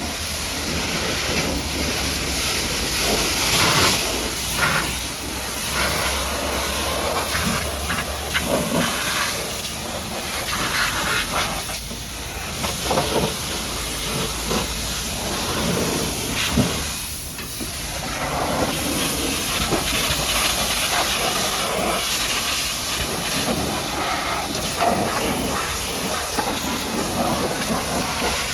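High-pressure washer jet spraying water onto a mud-caked dump truck: a continuous loud hiss that swells and dips as the spray moves across the surfaces.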